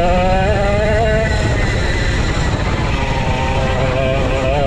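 Vintage racing kart's 135cc Sudam engine running hard on track, its pitch wavering and climbing early on, dropping back in the middle and rising again near the end as the throttle comes on and off. A dense low rumble sits under it.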